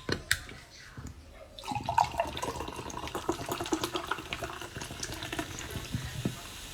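Orange juice making liquid sounds: a few sharp clicks, then about a second and a half in a continuous run of splashing liquid that lasts several seconds.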